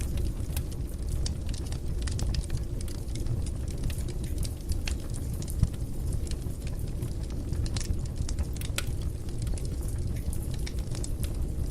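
Wood fire burning in a fireplace: a steady low rumble of flames with irregular crackles and snaps, and one louder pop about five and a half seconds in.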